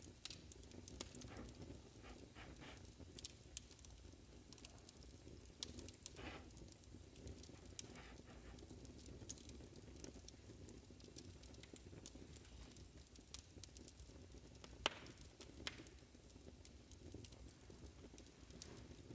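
Faint wood fire in a fireplace crackling, with irregular small pops over a low steady rumble of the burning; one sharper pop about 15 seconds in.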